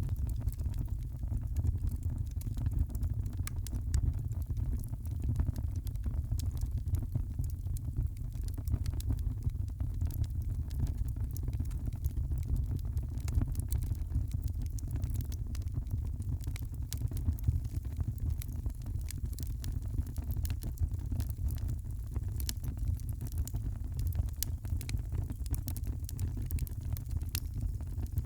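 Wood fire crackling in a fireplace: a steady stream of small pops and snaps over a constant low rumble, the crackles coming thicker near the end.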